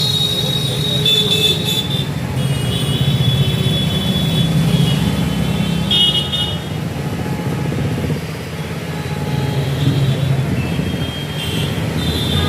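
Street traffic: vehicle engines running steadily, with car horns tooting briefly about a second in, around the middle, and again near the end.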